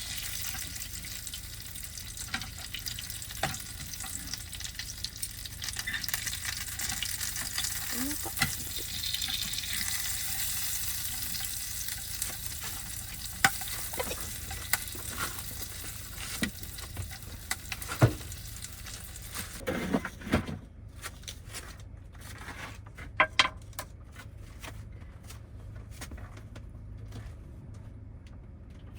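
Bone-in chicken sizzling as it fries, with occasional clicks and knocks of utensils. About two-thirds of the way through the sizzling stops, leaving scattered clicks and taps.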